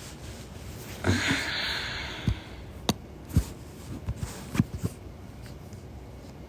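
A breathy exhale about a second in, then several short soft clicks and knocks, like a phone or small objects being handled close to the microphone.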